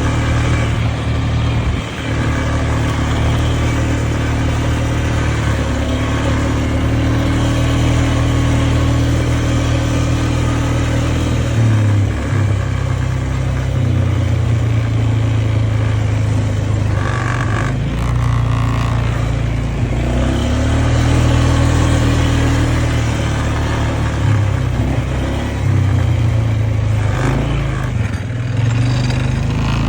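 An engine running continuously, its pitch and speed shifting up and down every few seconds.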